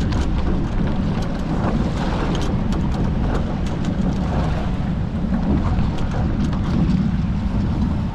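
Wind buffeting the microphone and water rushing past the hulls of a Hobie 14 catamaran under sail in choppy water, a steady low rumble with scattered sharp ticks.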